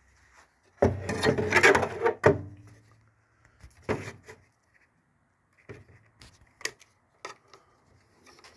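Handling noise: a loud scraping rattle lasting about a second and a half, then several separate clicks and knocks.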